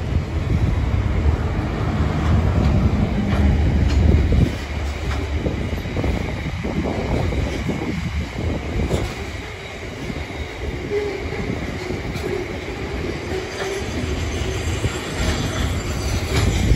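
Freight train's container flat wagons rolling past: a steady low rumble of wheels on rail with irregular clacks over joints, louder for the first few seconds.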